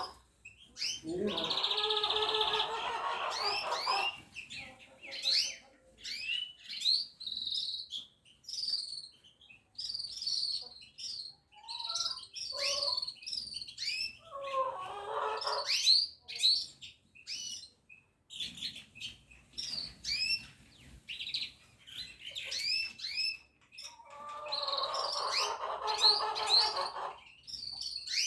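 Small songbirds chirping and twittering, a dense run of short, high, quick chirps throughout. Three times, near the start, in the middle and near the end, a lower, fuller warbling passage of two to three seconds rises over the chirps.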